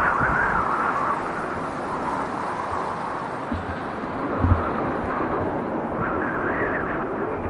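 Strong wind rushing through the trees in swelling gusts, with a few brief low buffets of wind on the microphone.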